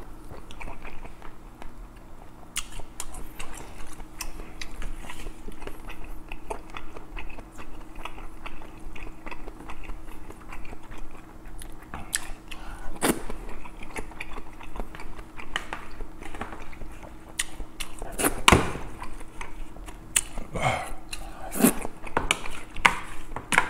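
Close-up chewing and biting on mouthfuls of rice mixed with kimchi stew, with a wooden spoon scraping and knocking against a metal lunch tin. The sharpest knocks come in the second half, as the tin is scraped clean.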